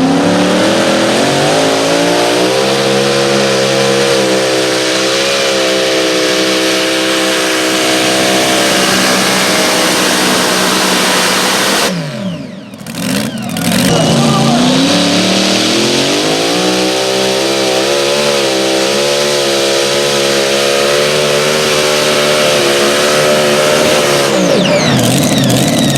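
Pulling vehicle's high-revving engine at full throttle, its pitch climbing and then holding steady as it pulls the sled. This happens twice, with a brief drop-out near the middle.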